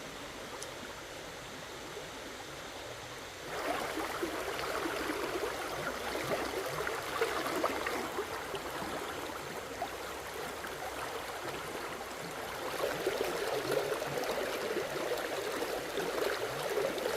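Flowing, splashing water: a rushing sound that jumps suddenly louder about three and a half seconds in and stays that way, easing off for a while and swelling again about twelve seconds in.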